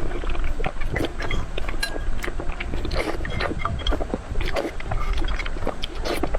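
Steady wind rumble on the microphone, with many short sharp clicks scattered through it.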